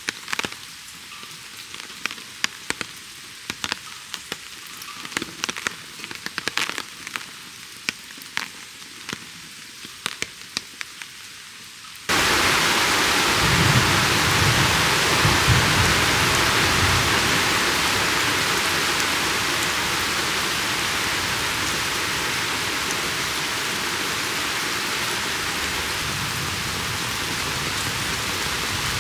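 Scattered raindrops ticking one by one, then about twelve seconds in a sudden switch to heavy, steady rain, with a low rumble of thunder shortly after.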